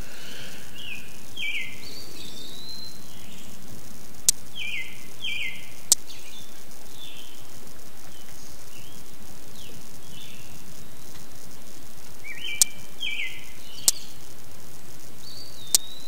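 Birds chirping: short chirps in quick clusters of two or three, over a steady outdoor hiss, with five sharp clicks scattered through.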